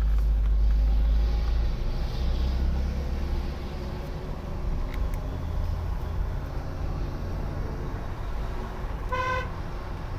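Low, steady rumble of a moving motor vehicle's engine and road noise, heavier in the first few seconds, with one short car horn toot about nine seconds in.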